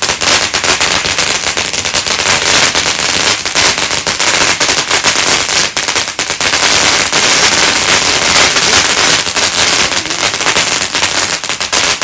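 Fireworks going off in a loud, dense barrage: rapid crackling and banging, many reports each second without a break.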